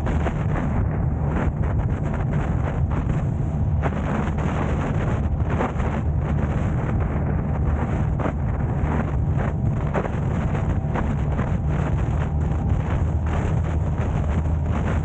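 A car driving, heard as a steady low rumble of engine and road noise, with wind buffeting the microphone in frequent short gusts.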